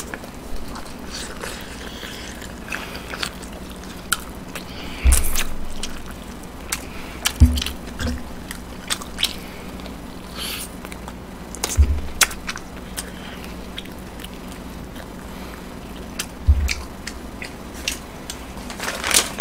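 Close-miked chewing and biting: a person gnawing and chewing marinated pork ribs, with wet mouth clicks and smacks throughout. A few dull thumps stand out, spaced several seconds apart.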